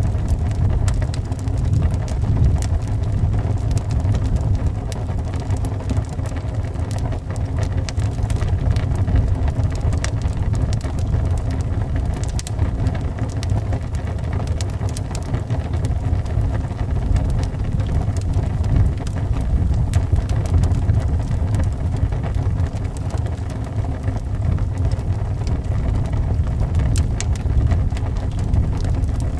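Wood fire crackling with scattered sharp pops over a steady low rumble of howling wind.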